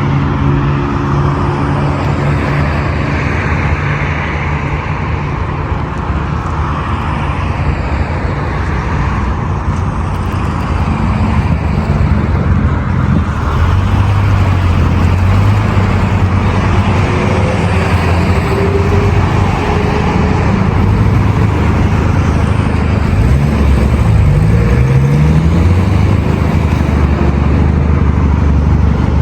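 Heavy road traffic: a steady mass of car engines and tyre noise on a busy multi-lane boulevard, with an engine revving up briefly about three quarters of the way in.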